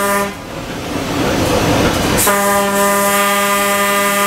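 Train horn sounding on one steady note: a blast cuts off just after the start, and after about two seconds of the train's running rumble a long blast begins.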